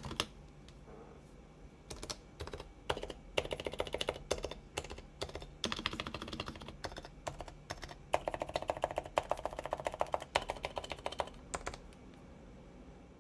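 Typing on a top-mount keyboard with 45 g Topre electro-capacitive switches, silenced with sliders and rings, under OEM Realforce keycaps: rapid keystrokes in runs. There are a few scattered strokes first, then steady runs, and the typing stops about twelve seconds in.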